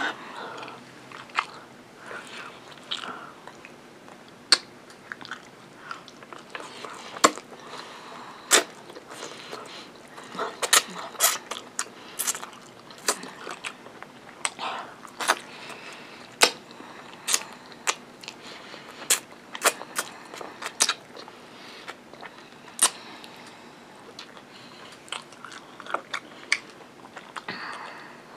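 Close-up chewing and biting of fried chicken and rice, with many sharp, irregular crunches and mouth clicks, thickest in the middle stretch.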